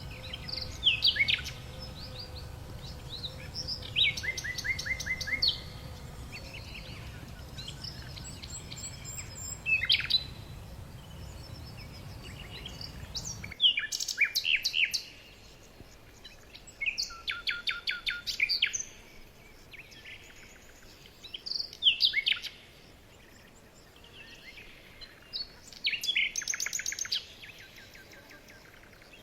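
Birds chirping in short bursts of quick, high repeated notes every second or two. A low background hum runs under the first half and cuts off suddenly about halfway through.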